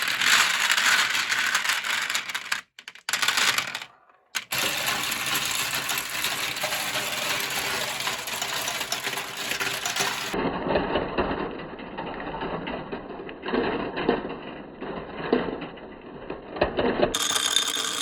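Marbles rolling and clattering along marble-run tracks. The sound cuts off and restarts abruptly several times.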